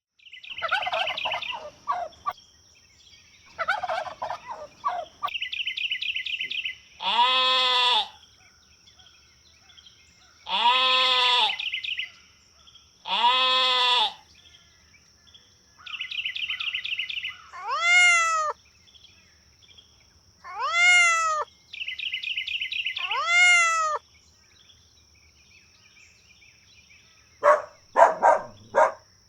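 Turkeys gobbling: short, rapid rattling bursts repeated several times, alternating with longer calls that rise and fall in pitch, over a steady high-pitched whine.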